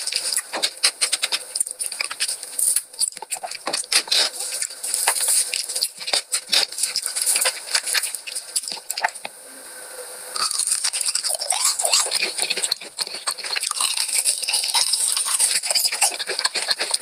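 Close-miked crunching and crackling of food being bitten and chewed, dense and irregular, easing briefly about two thirds through before picking up again.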